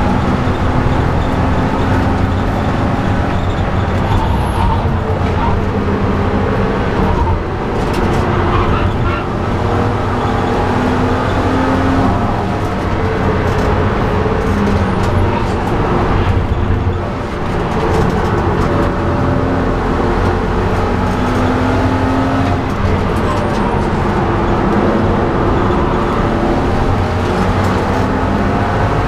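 BMW E90 330i's straight-six engine heard from inside the cabin under hard driving, its note rising and falling in pitch as it revs up and down, over steady tyre and road noise. The sound dips briefly twice, about seven and seventeen seconds in.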